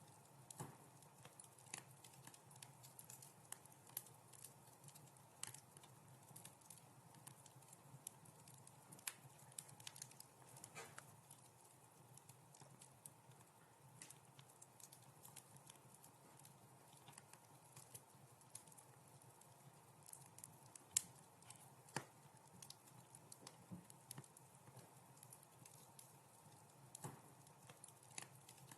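Wood fire crackling in a fireplace: scattered sharp snaps and pops over a soft steady hiss, quiet overall, with two louder pops about a second apart roughly two-thirds of the way through.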